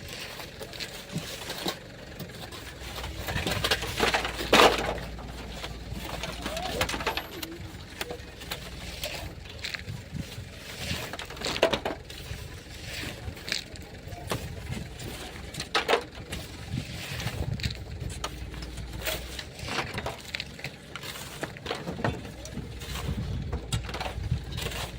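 Irregular knocks and scrapes of hand digging in sand and stones.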